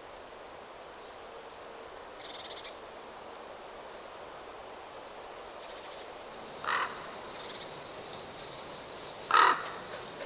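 A crow caws twice, short and harsh, the second call louder, in the second half, over a steady hiss of wind in the trees. A small bird gives a brief high trill about two seconds in, and a few faint chirps follow.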